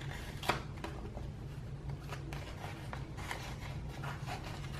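Paper stickers and planner pages being handled: light rustling with small ticks and taps, one sharper click about half a second in.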